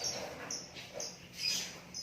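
Lakbet songbird calling: short, high, sharp chirps repeated about twice a second.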